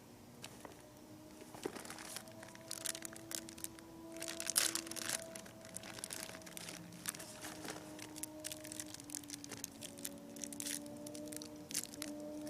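Irregular crunching and crackling, strongest about four to five seconds in, over a faint steady hum.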